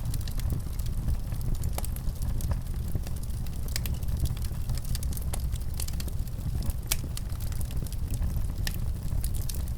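Wood fire burning in a fireplace: a steady low rumble of the flames with irregular sharp crackles and pops, one louder pop about seven seconds in.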